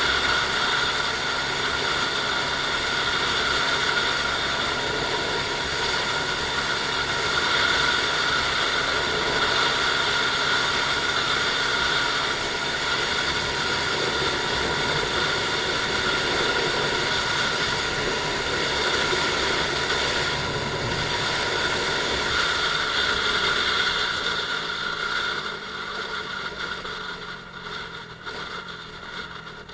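Honda Super Cub 110i's single-cylinder four-stroke engine running steadily on the move, with road and wind noise. About 25 seconds in, the sound drops and the engine note falls as the bike slows.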